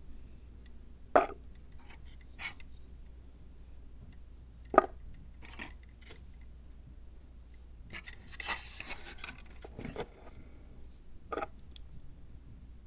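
Small objects being handled and set down on a hard surface while a miniature Zen dry garden is built: a few sharp taps, the loudest about one and five seconds in, and a brief scraping, rustling stretch a little after halfway.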